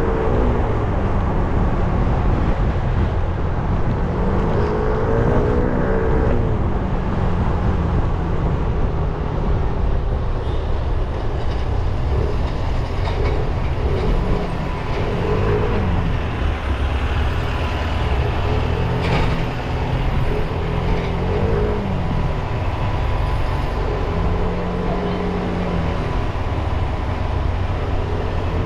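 300cc motorbike engine riding through traffic, its pitch rising and falling every few seconds as it accelerates, eases off and changes gear, over a steady heavy rumble.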